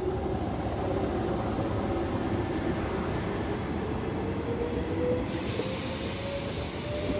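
Hanshin Railway electric train running, with a dense rumble and a whine that rises slowly and steadily in pitch. A brighter hiss comes in suddenly about five seconds in.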